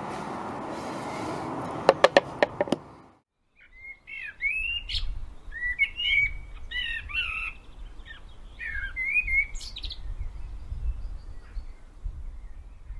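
A songbird singing short, varied whistled phrases with quick upward flicks, over a low rumble. Before it, for about three seconds, there is a steady outdoor rush with a quick run of sharp clicks, then a brief gap.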